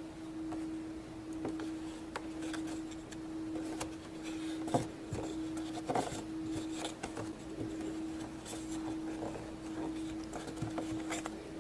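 Light clicks and taps of plastic Play-Doh pieces and tools being handled while a popsicle is decorated, over a steady hum. The sharpest taps come about five and six seconds in.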